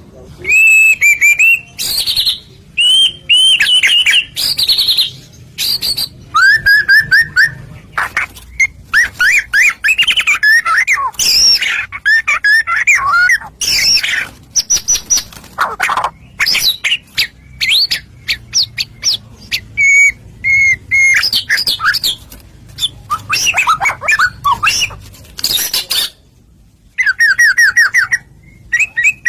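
White-rumped shama (murai batu) in full song: a loud, nearly unbroken run of varied phrases, with whistled glides, quick trills and sharp clicking notes, broken by brief pauses. The longest pause comes near the end.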